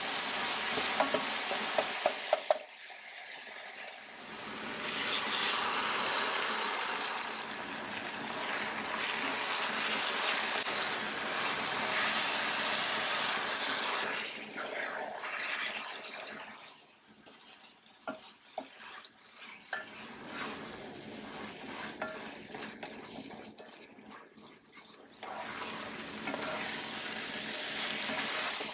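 Chilli-garlic sauce frying and sizzling in a hot stone-coated pot while a wooden spatula stirs and scrapes it, with noodles tossed through the sauce. The sizzle is strongest in the first half, dies down about halfway to softer spatula scrapes and clicks, and swells again near the end.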